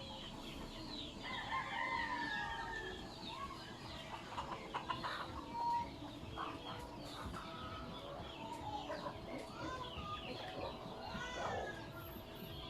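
A flock of native chickens clucking and calling, with many short overlapping calls throughout and a longer call about a second and a half in.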